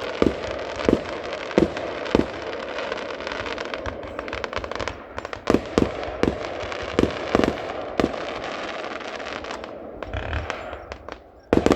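Fireworks display going off: a continuous crackle with sharp bangs every half second to a second, thinning out near the end.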